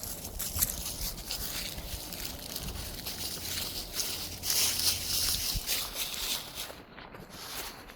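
Footsteps and rustling through grass and brush, swishing loudest around the middle and thinning out near the end.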